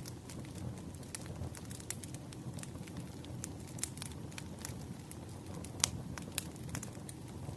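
Campfire burning: wood crackling and popping irregularly over a low steady rush of flame, with a few sharper pops near the end.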